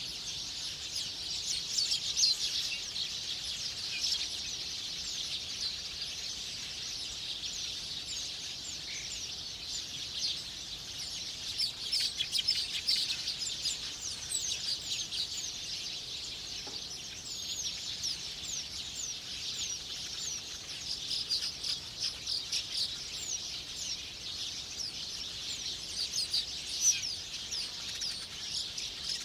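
Small birds chirping continuously: a dense stream of many short, quick, high-pitched chirps, some louder near the middle and near the end.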